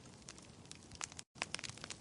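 Wood fire crackling: irregular sharp pops and snaps over a soft steady hiss. The sound cuts out completely for a split second a little past the middle.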